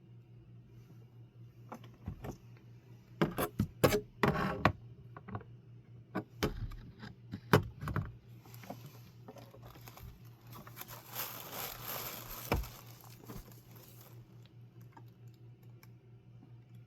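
A run of sharp clicks and taps a few seconds in, then several seconds of rustling, over a steady low hum.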